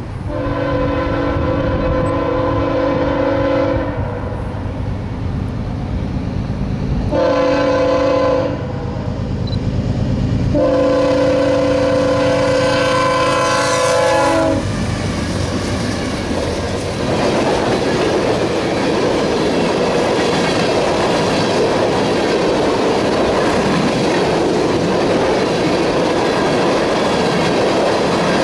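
Freight train's diesel locomotive horn sounding three blasts, long, short, long, several notes at once, over the locomotive's engine rumble. From about halfway through, the empty oil tank cars roll past with steady wheel clatter.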